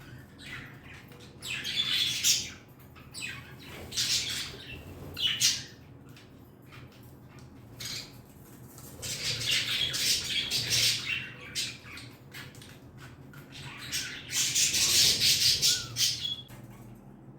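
Pet budgerigars squawking and chattering in harsh, high-pitched bursts, with quieter gaps between them; the longest bouts come about halfway through and near the end.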